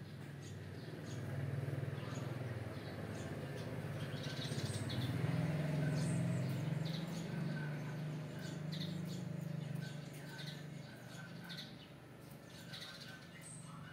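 Small birds chirping on and off in short high calls, over a low hum that swells for several seconds in the middle and then fades.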